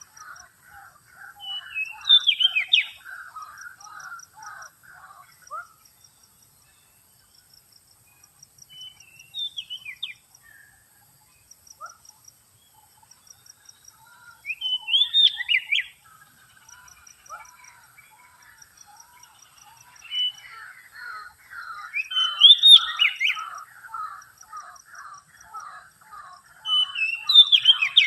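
Oriental magpie-robin (kacer) lure calls: five loud, sharp, falling call phrases spaced several seconds apart, over a fast, even chatter that drops out for about ten seconds in the middle.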